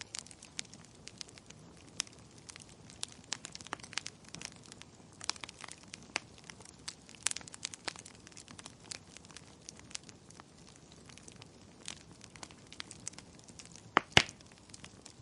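Wood fire in a fireplace crackling, with frequent small irregular pops and two louder pops close together near the end.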